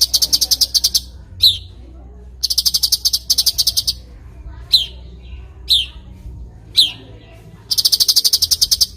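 A cucak cungkok songbird calling: three fast, buzzy trills of about a second each, with single sharp downward-sweeping chirps between them, four in all. A faint steady low hum lies underneath.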